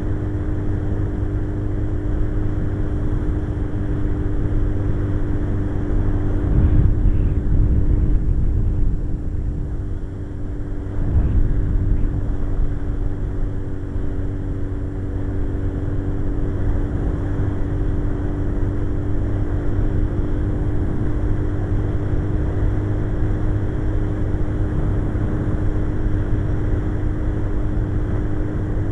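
Suzuki GSX-R 1100's inline-four engine running steadily at cruising speed, with heavy wind rush on the microphone. The rumble swells about seven seconds in and dips briefly near ten seconds.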